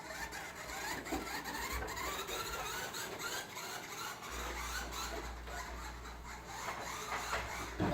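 Toy truck pushed along the floor, its wheels rolling and scraping steadily.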